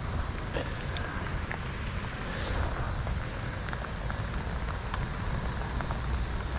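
Steady rain falling, with scattered sharp drop hits close by over a low rumble.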